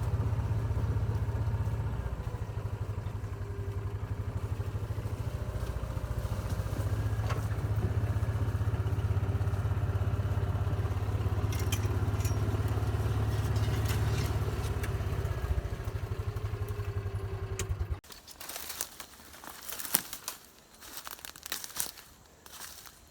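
A vehicle engine running steadily under way, with a low, fast even pulsing, which cuts off abruptly after about eighteen seconds. Then come quieter scattered crackles and rustles, like steps through brush.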